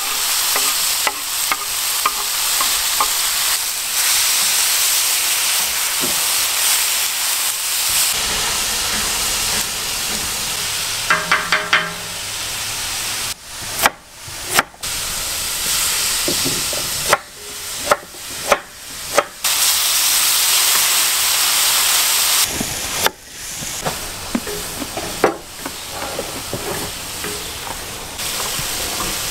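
Diced tomatoes and onions sizzling in a large hot pan, a steady frying hiss. Partway through, several sharp knife chops on a wooden cutting board break in.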